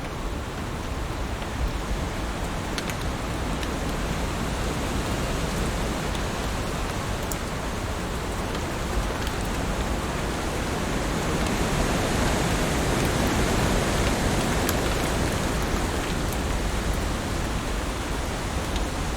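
Heavy rain falling as a steady hiss, with a few sharp drop taps. It swells louder for a few seconds a little past the middle.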